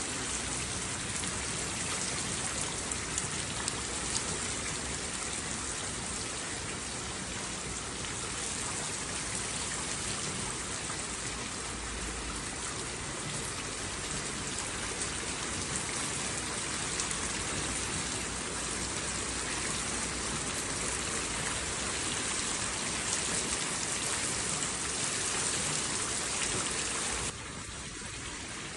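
Steady rain falling, an even hiss of many drops with no thunder. About a second and a half before the end it suddenly turns quieter and duller.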